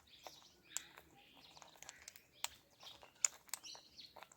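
Ringneck parakeet giving short, sharp chirps, about five of them spread through, with softer chattering between.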